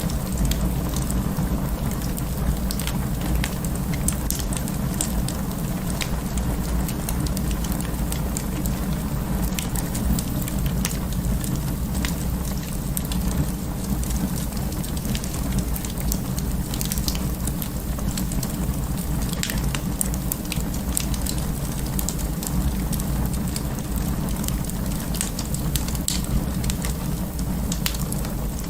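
Wood fire in an open fireplace crackling, with many sharp irregular pops over a steady low rumble.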